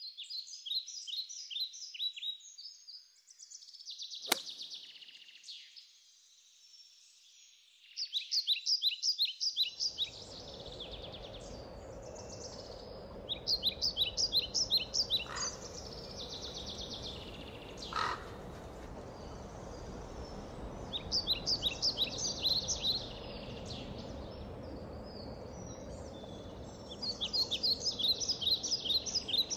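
Birds calling: short bursts of rapid, high chirps repeated every few seconds. A steady low background noise comes in about ten seconds in, and there is one sharp click early on.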